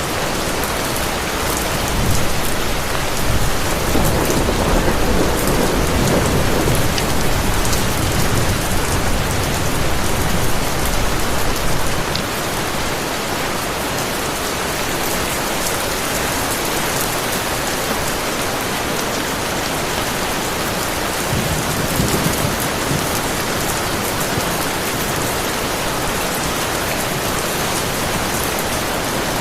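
Heavy, steady rain, with a long low rumble of thunder starting about two seconds in and fading out around twelve seconds, and a short, weaker rumble a little past the twenty-second mark.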